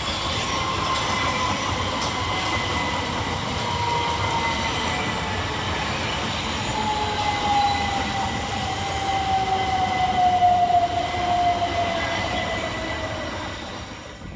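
Two coupled Class 377 Electrostar electric multiple units arriving and slowing into the platform, the traction motor whine falling steadily in pitch as the train decelerates, over wheel and rail rumble.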